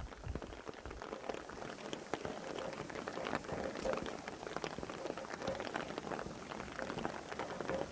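Steady rain, with many separate drops ticking on nearby surfaces.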